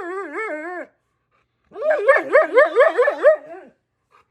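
Husky-malamute 'talking': wavering, yodel-like woo-woo vocalising in two phrases, the second about two seconds long. The pitch wobbles up and down several times a second.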